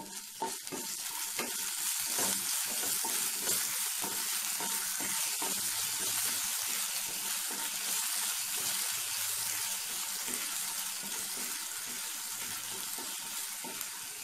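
Cashews, raisins, whole spices and grated ginger sizzling in hot oil and ghee in a non-stick kadai, stirred with a wooden spatula that scrapes and taps the pan now and then. The sizzle swells over the first couple of seconds, then stays steady.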